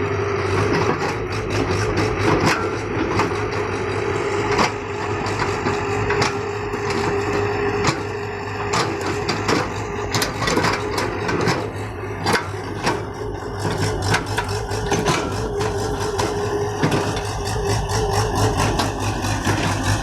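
Engine running steadily, with frequent short knocks and clatter throughout.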